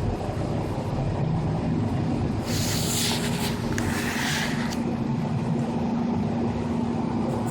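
Steady low drone of an air conditioner running close by, mixed with a steady jet-like roar from the sky. About two and a half seconds in, a hiss lasts about two seconds, and from about four seconds in a steady hum rises.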